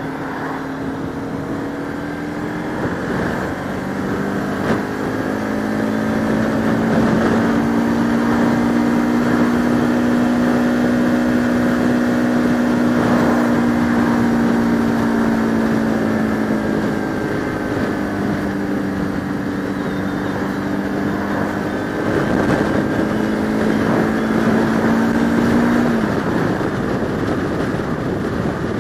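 Motorcycle engine, a Bajaj Pulsar RS200 single-cylinder, running steadily while riding, under constant wind noise on the helmet microphone. The engine note changes pitch a few seconds in and again midway, and its steady tone stops near the end.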